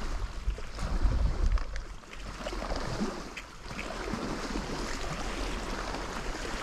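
Wind buffeting the microphone in gusts, with low rumbles, over a steady outdoor hiss.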